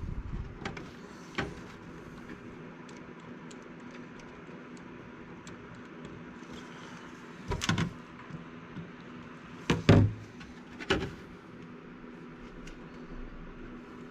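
A few scattered knocks and clunks of hard parts being handled and set down on a workbench, the loudest about ten seconds in, over a faint steady hum.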